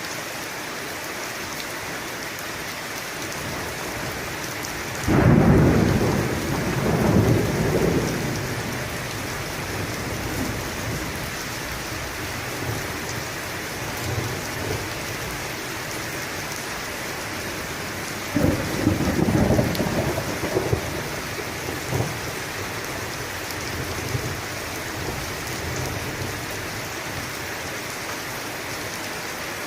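Steady heavy rain with two loud rolls of thunder, one about five seconds in that rumbles on for a few seconds, and a second crackling one about eighteen seconds in with a short sharp crack a few seconds after it.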